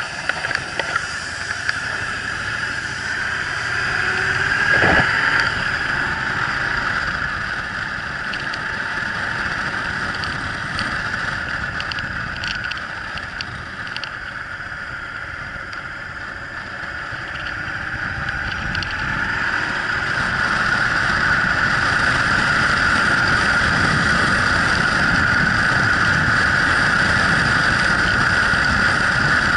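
Yamaha Drag Star 1100's air-cooled V-twin running as the motorcycle is ridden. It grows louder about two-thirds of the way through and stays loud.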